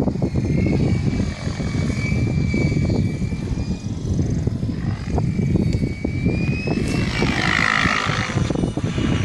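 Mikado Logo 600 electric RC helicopter in flight: the rotor's steady whine bends up and down in pitch as it manoeuvres, with a swirl of quickly shifting tones about three-quarters of the way in, over a heavy low rumble.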